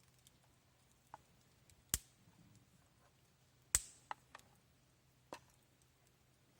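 A few sharp, separate knocks and clicks over a faint steady hum, the two loudest about two seconds and nearly four seconds in, with smaller ones between.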